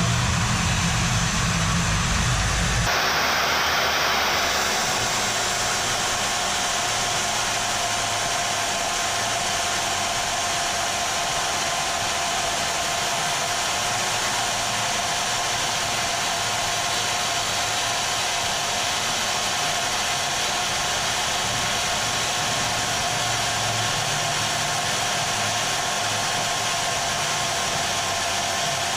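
Bauer portable band saw running steadily in its benchtop stand, its motor whine holding one pitch, with a heavier low rumble in the first three seconds.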